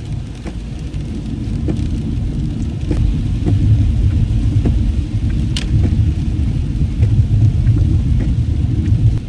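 Car driving in heavy rain, heard from inside the cabin: a steady low road and engine rumble, with scattered light taps over it.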